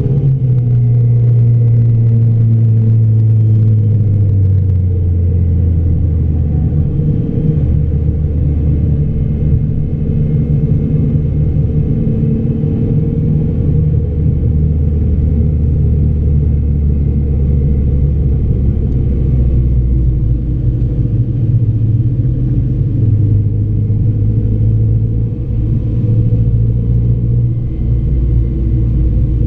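Car engine heard from inside the cabin while driving on a race track, a steady low note that rises and falls with throttle. The pitch falls off and steps down in the first few seconds, then holds with slow rises and dips.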